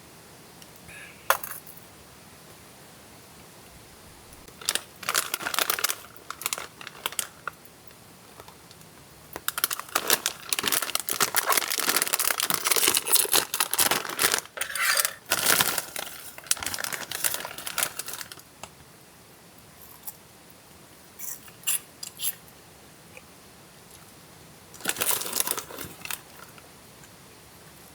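Close-up handling noises in irregular bursts: crinkling and rustling with small sharp clicks and clinks, densest in a long run through the middle.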